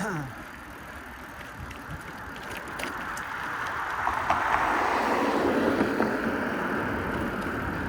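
A motor vehicle driving past close by in traffic, its noise swelling over a few seconds and then staying loud.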